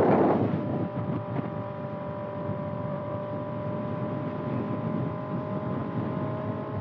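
Kawasaki ZX6R's inline-four with a Voodoo Racing slip-on exhaust running at a steady cruise, an even note that holds its pitch. A loud rush of noise fades away in the first half second.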